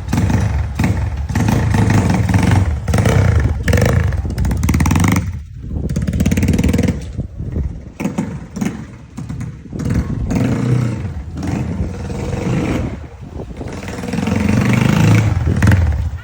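Yamaha Scorpio single-cylinder motorcycle with an aftermarket split open exhaust, revved again and again, each blip swelling and falling back, with a strong rev near the end.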